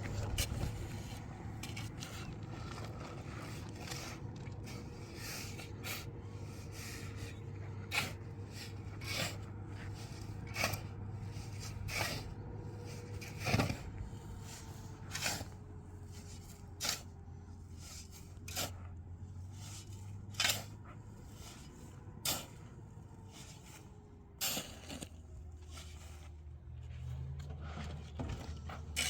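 Sharp knocks repeated at a steady working pace, roughly one every one and a half to two seconds, over a faint low hum.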